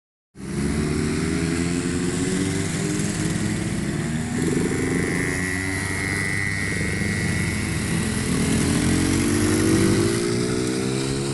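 ATV engine running. A high whine comes in through the middle, and then the engine speeds up, its pitch rising and loudest near the end.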